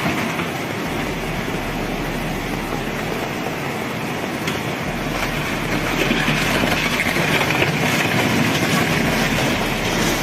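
Rushing floodwater: a steady, dense wash of noise that grows louder about six seconds in.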